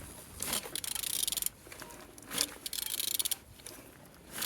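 Ratchet wrench clicking in several short bursts of rapid ticks as it turns an engine over by hand at the crankshaft. The engine turns over freely, showing it is not seized.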